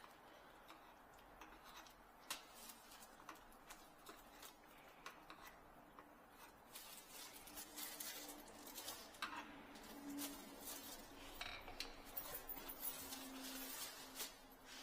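Faint, scattered clicks, light knocks and small clinks of hardware being handled while a garbage disposer is fitted under a kitchen sink.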